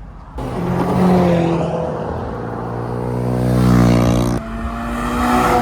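Car engine accelerating hard, its pitch climbing steadily, then dropping suddenly about four seconds in as at a gear change before pulling again.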